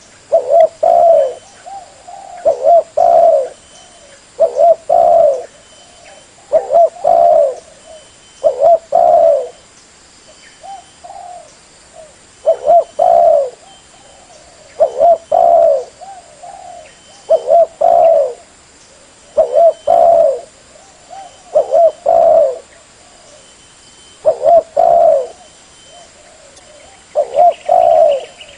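Spotted dove (tekukur) cooing: a loud, repeated phrase of a few low coos roughly every two seconds, with two short pauses holding only fainter notes.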